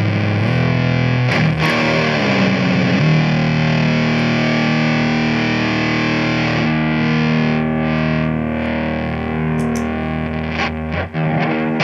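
Ibanez S470 electric guitar played through a fuzz pedal: distorted, sustained notes and chords ringing out, changing every few seconds.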